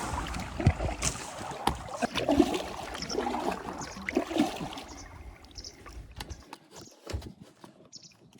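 Water splashing and gurgling around a kayak, with scattered knocks and clicks on the hull, growing fainter over the last few seconds.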